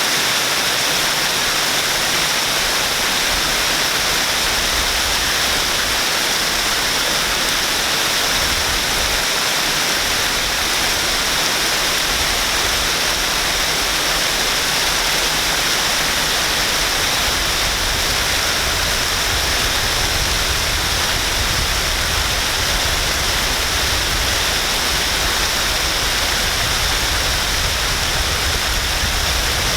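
Waterfall pouring steadily, a dense even rush of falling water. A low rumble joins in about a third of the way through and stays.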